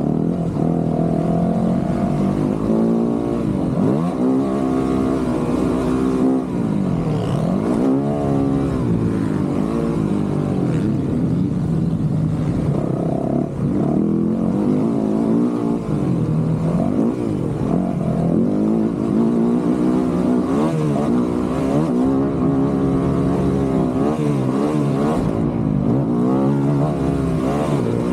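Dirt bike engine being ridden hard, its pitch rising and falling again and again every second or two as the throttle opens and closes.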